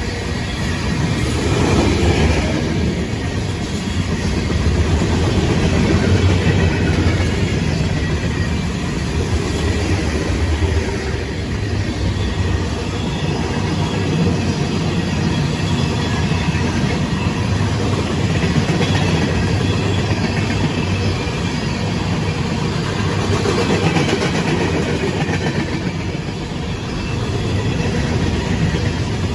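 CSX freight train rolling past, its railroad cars making a steady rumble on the rails.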